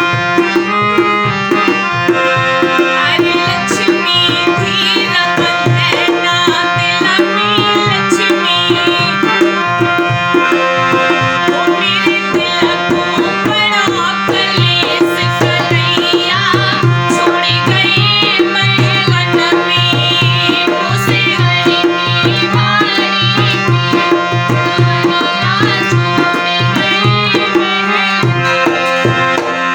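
Indian devotional folk music with tabla playing a steady rhythm under held drone chords and a wavering high melody line.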